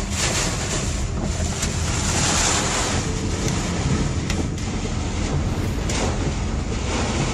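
Hail pelting a truck in a strong wind: a dense, steady roar of wind buffeting the microphone, with scattered sharp clicks of hailstones striking the cab.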